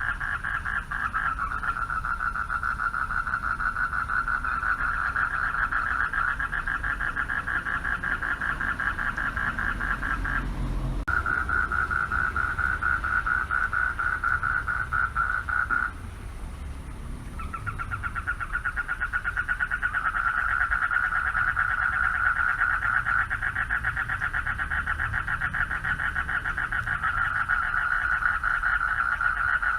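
A chorus of male frogs calling for mates at a pond, a dense mass of rapidly pulsing calls. About halfway through the chorus falls away for a second or so, then starts up again.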